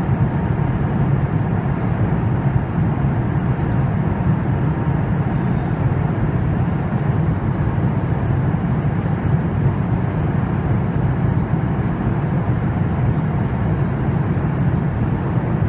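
Steady cabin noise inside a Boeing 737 MAX 8: an even, unchanging rumble of engines and airflow, heaviest in the low end, with a faint steady hum above it.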